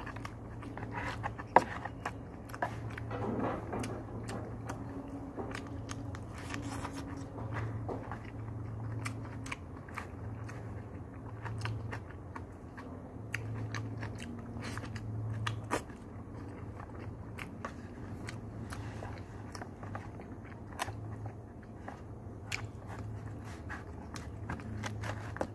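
Close-up chewing and biting of a mouthful of rice and fried pork chop, with many short sharp clicks of mouth and spoon against the food box, over a steady low hum.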